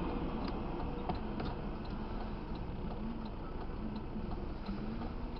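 A car's turn-signal indicator ticking steadily inside the cabin, about two clicks a second, over a low engine and road hum.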